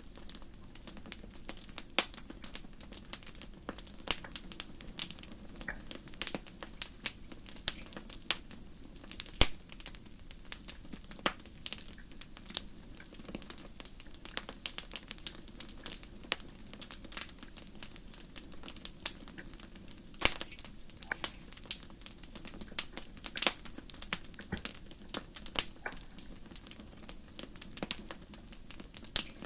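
Wood fire crackling: irregular sharp pops and snaps over a soft steady hiss of burning.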